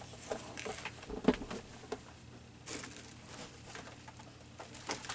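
Scattered light taps, knocks and rustles of a box and papers being handled on a table, with one sharper knock about a second in.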